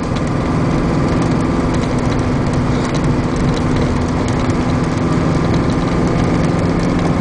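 Steady engine and road noise inside the cab of a 2002 Chevrolet 3500 heavy-duty utility truck while driving along. The engine has a miss, which the seller thinks may call for a major tune-up or a valve job.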